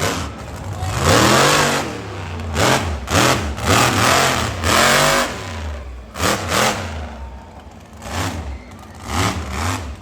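Monster truck engine revved hard in a series of bursts, its pitch rising and falling with each one; the revs come about once a second, the longest and loudest in the first half, then shorter blips near the end.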